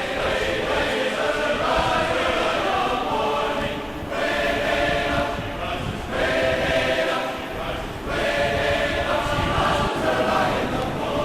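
Choir singing in held phrases about two seconds long, over a steady low rush of noise.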